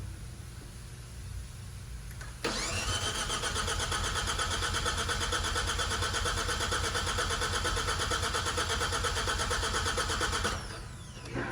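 Starter motor cranking the 2019 Hyundai Veloster N's new 2.0-litre turbo four-cylinder on its first start, with an even rapid pulsing, for about eight seconds without the engine catching. It starts suddenly about two and a half seconds in; near the end the starter is released and the sound winds down in pitch.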